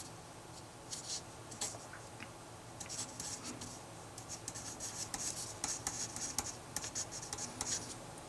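Handwriting: a pen scratching out strokes, a few at first, then a quick, dense run of short scratches as a line of algebra is written.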